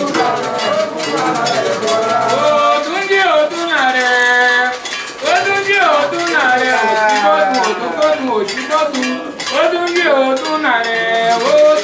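Voices singing a Candomblé chant over a steady beat struck on an agogô, the iron double bell.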